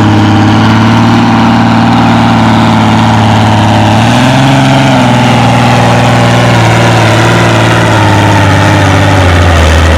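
Ford farm tractor engine pulling a weight-transfer sled under heavy load. It runs steadily, its pitch steps up about four seconds in and eases off near the end.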